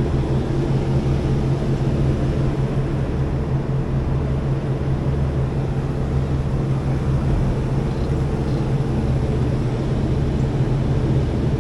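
Belt-driven rooftop HVAC units running, with a steady low hum and a rush of fan air. All three are working.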